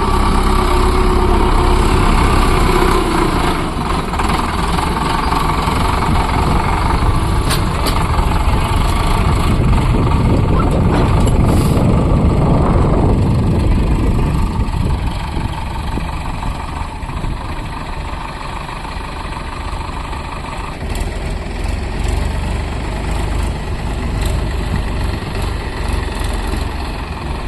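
Diesel tractor engine running steadily, with a steady whine above it that stops about three-quarters of the way through.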